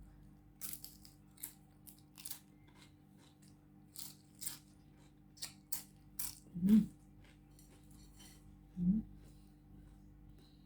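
Crisp, thin rugag bread being bitten and chewed: a scattered run of sharp, dry crackling crunches. Two short hums from the eater come about two-thirds of the way in and near the end.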